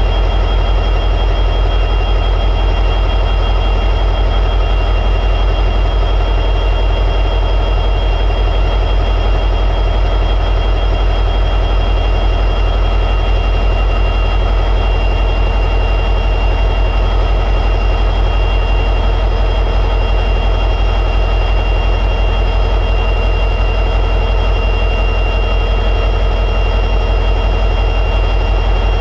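EMD 710G3B two-stroke diesel prime mover of an SD60E locomotive running steadily in high idle. It is a constant deep drone with a steady high-pitched whine over it.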